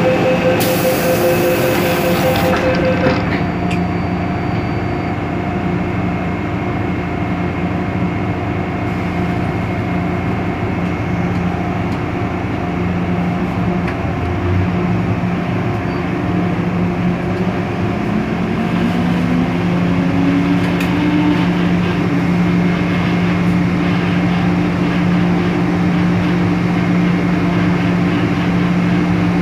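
Inside an MTR M-Train electric multiple unit: steady running hum and rail noise. It opens with a quick series of beeps and a hiss for the first few seconds. About 18 seconds in, a motor tone rises in pitch and then holds steady.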